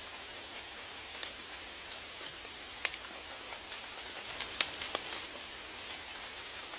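Steady rain hissing, with scattered individual drops ticking sharply; the loudest drops land about three and four and a half seconds in.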